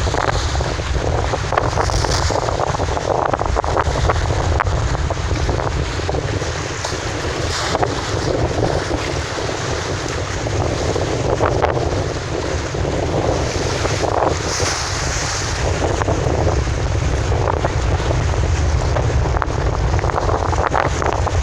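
Strong wind buffeting the microphone, rising and falling in gusts, over the wash of river waves.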